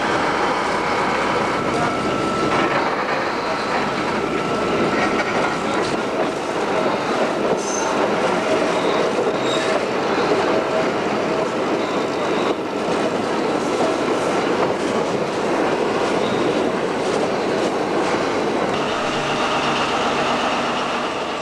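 Narrow-gauge passenger train running, heard from a carriage's open end platform: steady wheel-and-rail rumble with clatter over the rail joints. At times the wheels squeal thinly as they take curves.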